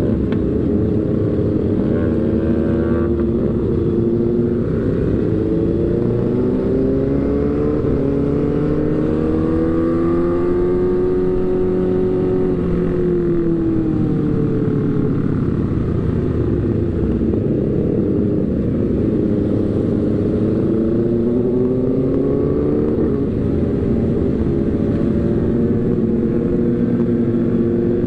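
Motorcycle engine running while riding, its pitch rising and falling slowly as the speed changes, over steady road and wind noise.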